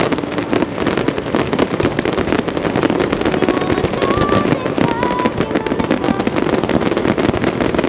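Many fireworks crackling and popping at once in a dense, continuous barrage of sharp cracks with no gaps.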